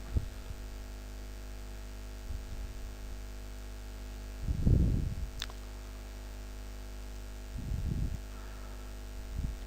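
Steady electrical mains hum and hiss on the recording, with two brief low swells and a single faint click.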